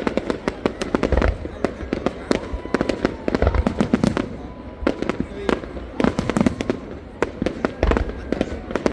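Aerial fireworks going off: rapid crackling and popping throughout, with three deep booms about a second in, midway and near the end.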